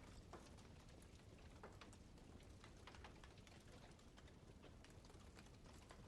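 Campfire burning faintly, with irregular crackles and snaps from the wood over a low steady background noise.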